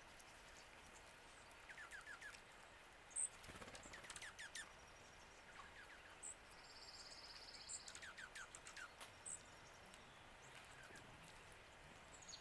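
Faint calls of small birds: scattered sharp high chips and three quick runs of four or five short descending notes, with a brief buzzy trill about seven seconds in.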